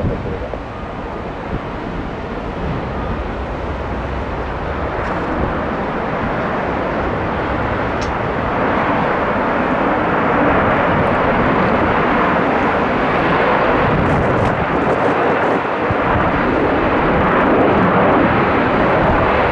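Jet airliner's engines, a steady rushing noise growing louder as the plane approaches.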